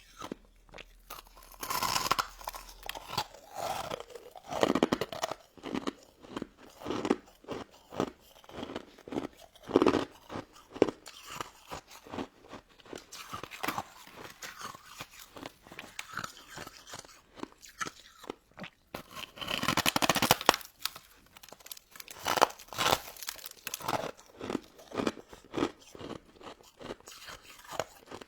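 Close-miked crunching and chewing of crystal snow ice dessert: a steady run of short crisp crunches, with louder bites about two, ten and twenty seconds in.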